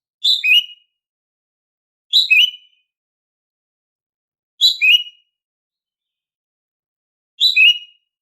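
Female cucak ijo (green leafbird) giving its everyday call: four short two-note chirps, each dropping in pitch, spaced two to three seconds apart with silence between.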